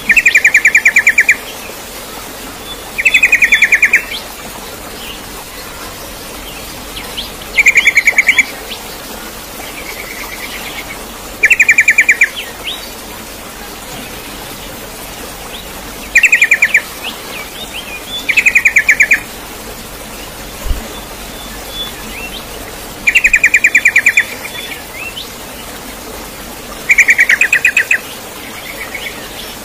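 A bird calls over and over in short, fast trills, each about a second long, eight times at irregular gaps.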